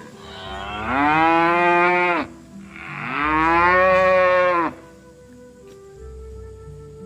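A cow mooing twice, in two long calls of about two seconds each with a short gap between them. The pitch rises at the start of each call and drops at the end.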